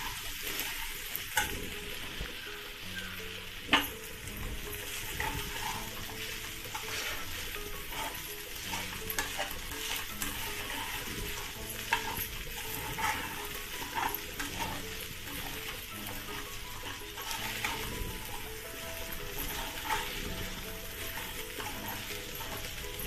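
Soaked sago pearls and diced potato stir-frying in ghee in a nonstick kadhai: a steady sizzle, with a metal spatula stirring and scraping and now and then clicking against the pan.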